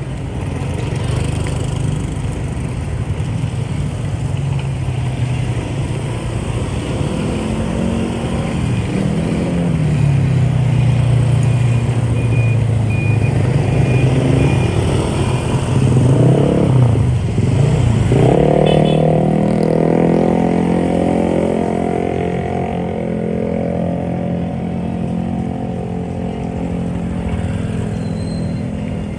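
Motorbike engine running in dense rush-hour motorbike traffic, the engine note dropping as it slows about two-thirds of the way through, then rising again as it picks up speed.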